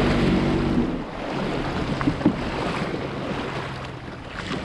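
Seadoo Fish Pro jet ski engine running at low speed, shutting off about a second in, after which only wind on the microphone and water noise remain.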